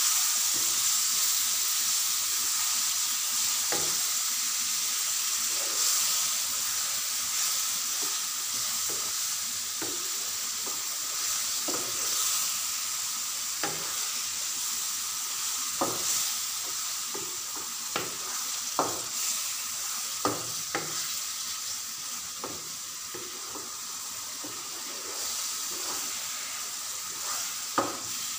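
Minced mutton frying in oil in a nonstick pan, sizzling steadily while a spatula stirs it, with irregular scrapes and knocks of the spatula against the pan.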